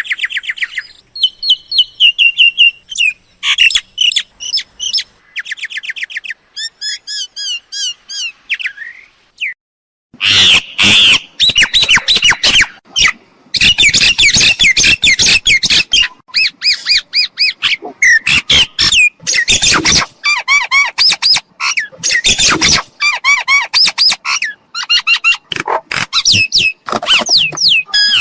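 Mynas calling: fast phrases of squawks, chattering notes and whistles. The calls come in spaced phrases for the first ten seconds, stop briefly, then go on as a dense, loud run of overlapping calls.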